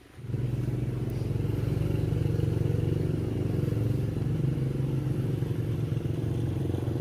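Motorbike engine running steadily with a fast, even pulse, coming in suddenly just after the start.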